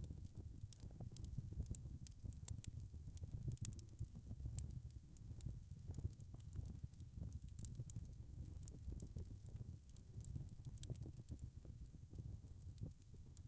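Wood fire crackling: a low steady rumble of burning, with frequent sharp pops and snaps.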